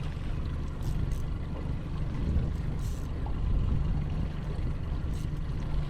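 Wind buffeting the microphone over the steady low hum of the skiff's idling outboard motor.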